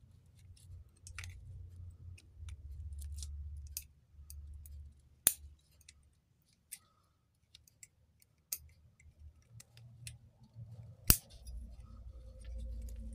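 Small metallic clicks and ticks from hand work on an electric motor's brush holder as the carbon brushes are freed from their retaining wires. Two sharp clicks stand out, about 5 and 11 seconds in.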